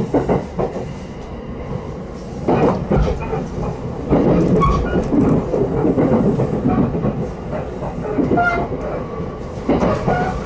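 Running noise of a Takasaki Line electric commuter train heard from inside the passenger car: a steady rumble of wheels on the rails, with sharper clacks at about two and a half seconds and again near the end.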